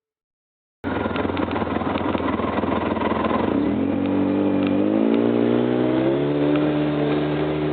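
Polaris RZR side-by-side's engine running under way with road and wind noise, rising in pitch as it speeds up about three seconds in, then holding steady. The sound cuts in suddenly about a second in.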